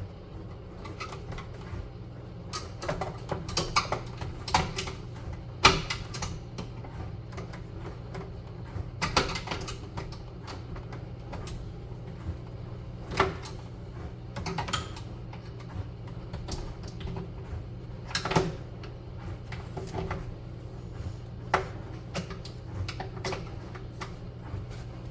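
Irregular clicks and knocks of a screwdriver and hands working at a stubborn screw in a Samsung microwave's door handle, over a steady low hum.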